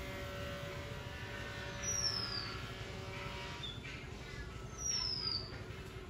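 A bird's thin, high whistle gliding down in pitch, given twice about three seconds apart. A steady hum with several held tones sits under it and fades out about halfway through.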